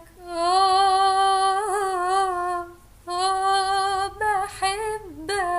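A woman singing unaccompanied, holding a long vocal note for about two and a half seconds, then a second held note with a brief wavering ornament, and shorter sung phrases near the end.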